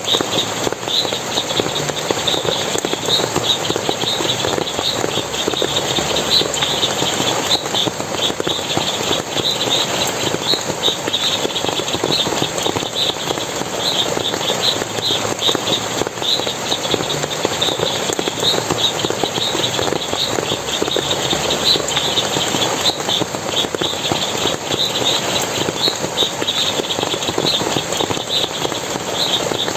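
Forest water splashing and running steadily, with a constant scatter of short, high chirps over it throughout.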